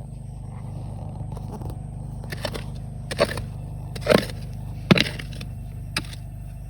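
Scrapes and knocks of a hand tool digging into riverbed gravel and stones, five sharp strokes about a second apart, over a steady low rumble.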